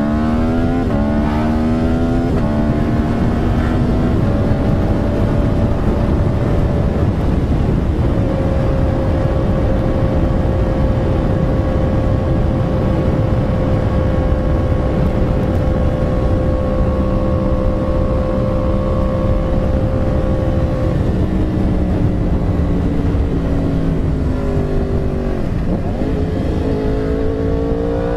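Yamaha R1 inline-four sportbike engine heard from the rider's seat: it pulls up in pitch through two quick upshifts in the first few seconds, holds a steady cruise, then falls in pitch as the throttle is eased off and picks up again right at the end. A steady rush of wind runs underneath.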